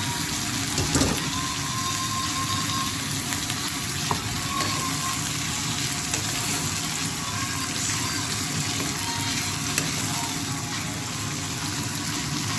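Food frying and sizzling steadily in a pan, with a few short clicks.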